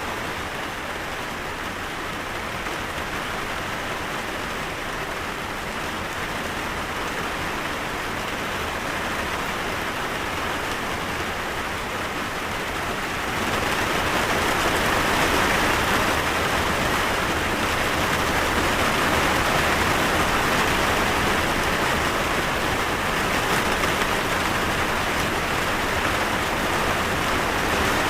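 Steady rain falling. It grows heavier and louder about halfway through.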